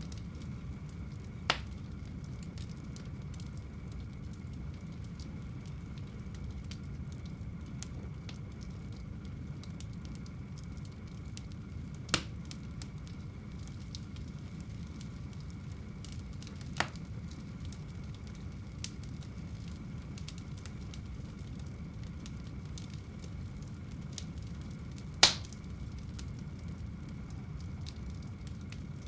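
Wood fire burning in a home fireplace: a steady low rush of flame with faint continual crackle and a few sharp pops, the loudest near the end.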